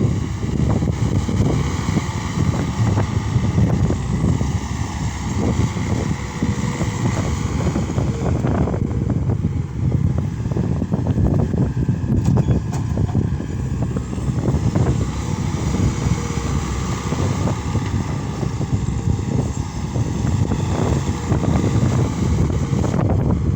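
Case SR200 skid steer loader's diesel engine running steadily and loud.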